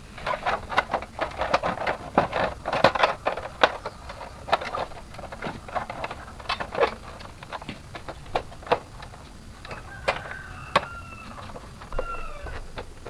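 Rapid, irregular clicking and tapping of small hard objects knocking together, dense for the first four seconds, then sparser. A few short chirping tones about ten to twelve seconds in.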